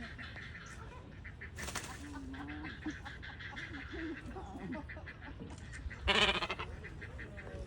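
Nesting wading birds calling in a colony: scattered faint calls, then one loud, harsh, honking call about six seconds in, over a steady low rumble.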